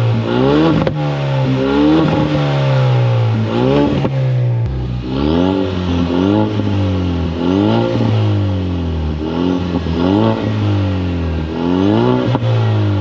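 2021 Mustang EcoBoost's turbocharged 2.3-litre four-cylinder, its exhaust almost entirely removed, being revved over and over, the pitch climbing and falling back about once a second. The open exhaust gives a loud, raw tone.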